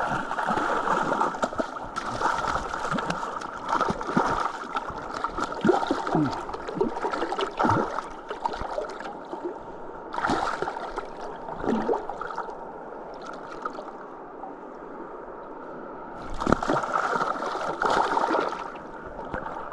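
River water running and gurgling at the bank, broken by splashes from a hooked steelhead thrashing in the shallows: a flurry at the start, another about ten seconds in, and a longer one near the end.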